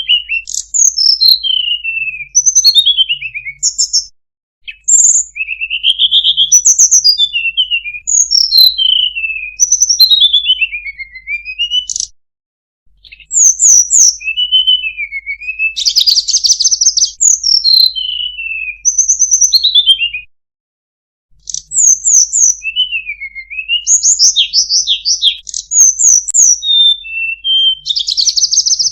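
A tledekan gunung singing a loud, varied song of quick whistled notes that slide down and up in pitch. It comes in four long bouts separated by brief pauses.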